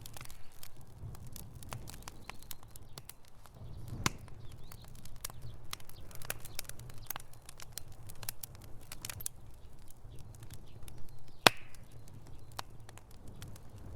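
Wood fire crackling in a fireplace: irregular sharp pops and snaps over a low, steady rumble of the flames, with one louder snap late on.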